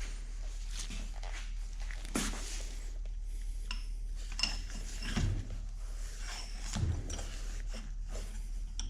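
Metal tools and spindle parts being handled, giving scattered light clinks and knocks, a few with a short ringing, over a steady low hum.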